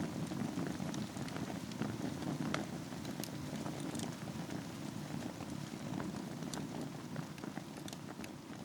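Wood fire burning in a fireplace over embers: a steady low rush of flames with scattered, irregular sharp crackles and pops.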